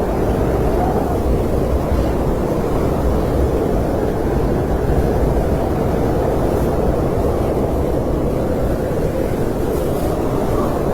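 Snowstorm wind blowing steadily: a dense, even, low rush with no gusts or breaks.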